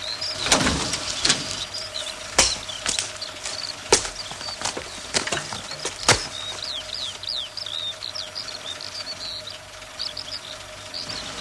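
Small birds chirping, many short quick calls, busiest in the second half. Several sharp knocks sound in the first half, with a faint steady hum underneath.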